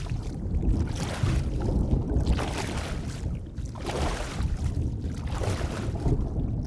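Underwater ambience: a steady deep rumble of moving water, with a rushing, bubbly swell rising and falling about every one and a half to two seconds.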